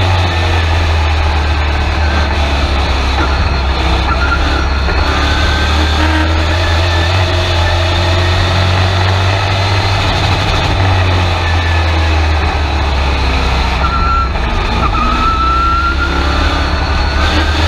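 Race truck's engine running at a steady pitch, heard from inside the cab over road and wind noise, with a faint whine that rises twice.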